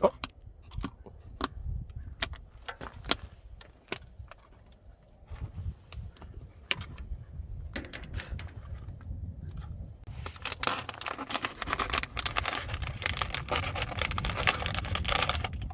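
Scattered sharp clicks and knocks at first. About ten seconds in, a dense crackling rustle with many small clicks sets in and keeps going.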